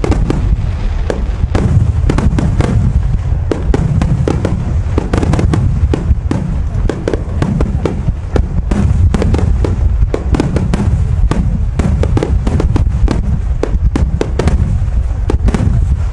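Aerial firework shells bursting in quick succession during a dense barrage: many booms and cracks that run together over a continuous low rumble.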